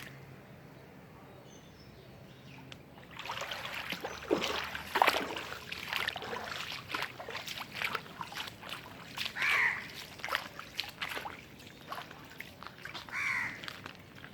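Crow cawing twice, in the second half, single harsh caws several seconds apart. From about three seconds in, a run of irregular sharp noises starts up, louder than the caws, and dies down near the end.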